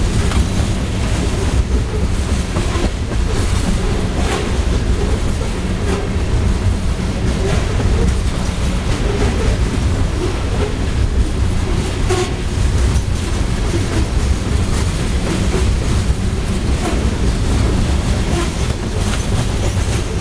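Coal gondola cars of a CSX freight train rolling past: a steady low rumble with frequent clicks and clacks of the wheels over the rail joints.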